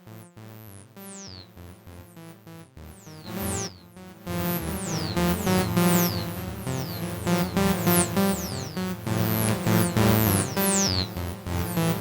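Acid electronic jam played on AcidMachine: a sequenced synth pattern with repeated falling high zaps. About four seconds in, a fuller and louder layer with more bass comes in.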